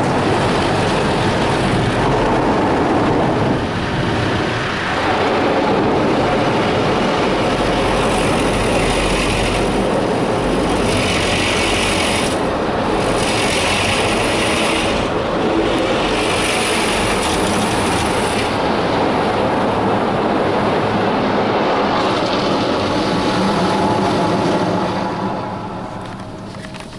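Rotating car-wash brushes scrubbing over the car body, heard from inside the car as a loud, steady swishing rumble. A higher hiss comes and goes in several spells in the middle, and the noise dies down near the end.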